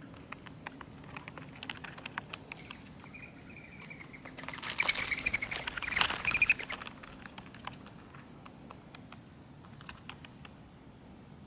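Small birds at a seed feeder: scattered sharp clicks and taps of beaks pecking and cracking seed, rising to a louder dense flurry of clicks and fluttering about halfway through, with a few short high call notes.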